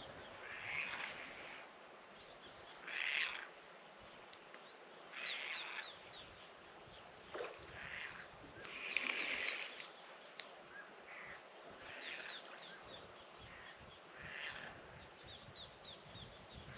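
Wild birds calling: a series of short rough calls every second or two, with quick little chirps in between.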